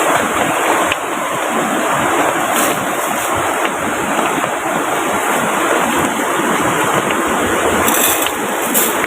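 Steady rushing of a rain-swollen river flowing close by, with a few brief high hissing crackles near the end.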